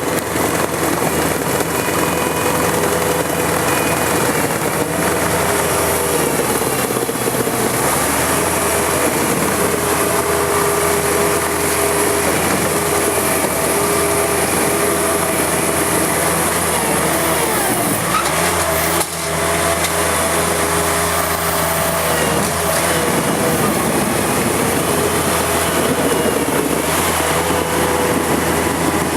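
Engine of a Mobitrac amphibious machine running steadily under work, its pitch shifting up and down with a brief dip about two-thirds of the way through.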